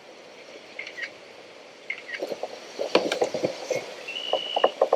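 Water splashing and hollow knocks against a fishing kayak as a bass is netted. The knocks and splashes grow busier about halfway through.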